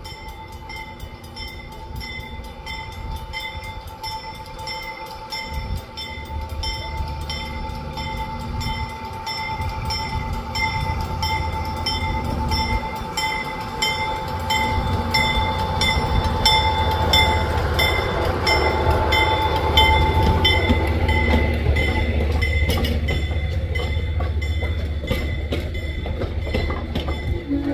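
Grade-crossing warning bell ringing steadily, about two strokes a second, while a diesel locomotive's engine rumble grows as it approaches. The diesel-hauled passenger train's coaches then roll past over the crossing, with the rumble at its loudest near the end.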